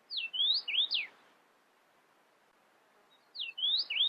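Northern cardinal singing two short phrases of clear, slurred whistles, each phrase about a second long, about two and a half seconds apart, over a faint recording hiss.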